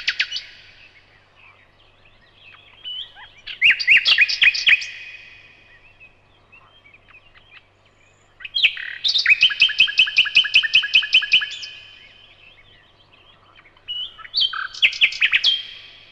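Nightingale singing: three separate song phrases of fast repeated notes, each a second or few long, with pauses of a few seconds between them.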